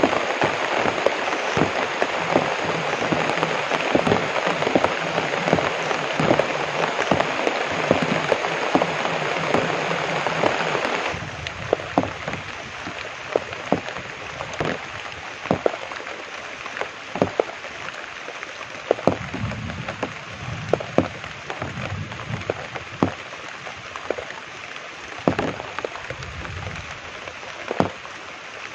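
Heavy rain falling on plantation foliage, a dense steady hiss. About a third of the way in it drops suddenly to a lighter hiss, in which single large drops tap sharply and irregularly on the leaves.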